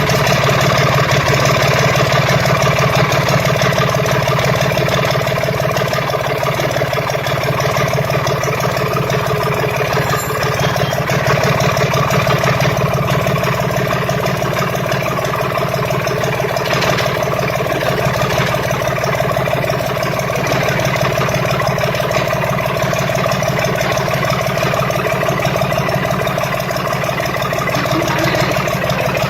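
Freshly overhauled RB 33 Plus generator engine running steadily at idle, with an even, rapid firing beat.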